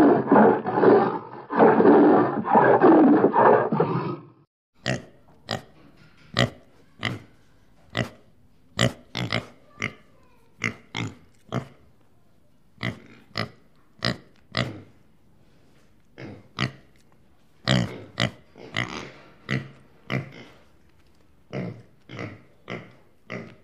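A big cat growls for about four seconds. Then piglets grunt in short, sharp grunts, about one or two a second, with a louder cluster a little past the middle.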